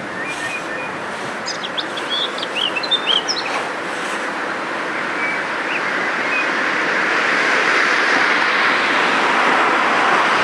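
A steady rushing noise that grows louder from about halfway through, with a few short, high bird chirps over it early on.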